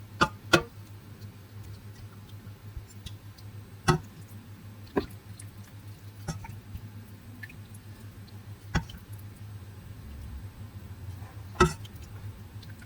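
Scattered sharp clicks and taps, about seven of them at irregular intervals, two in quick succession at the start and one of the loudest near the end, over a faint steady low hum.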